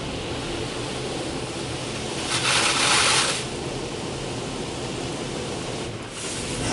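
Mark VII AquaJet touchless car wash running, heard from inside the car: a steady low hum with water spraying, and a louder hiss of spray hitting the car for about a second, about two and a half seconds in.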